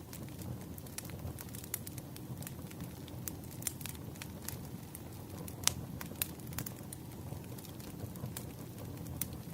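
Wood fire crackling: irregular sharp pops and snaps over a low steady rumble of burning logs, with one louder pop a little past the middle.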